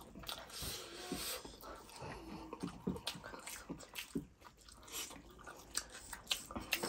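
Close-miked eating sounds: chewing and biting into fried chicken, with small irregular crunches, clicks and mouth smacks.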